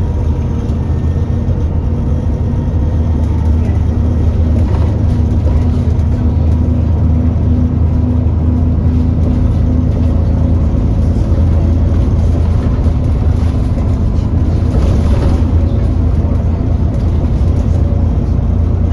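Alexander Dennis Enviro400 bus heard from on board: a steady, loud engine drone with the hoover-like whine of its cooling fan running hard, a sign of the engine running hot.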